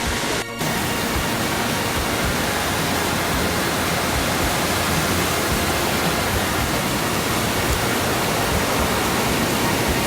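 Steady, loud rushing of water pouring down Anna Ruby Falls, with a brief dip about half a second in.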